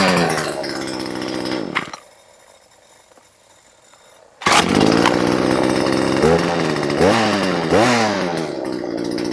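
Husqvarna 240 chainsaw's small two-stroke engine, a freshly fitted replacement, running without bar and chain. It revs and falls back, stops about two seconds in, starts again about two and a half seconds later, and is revved three times, each rev falling back.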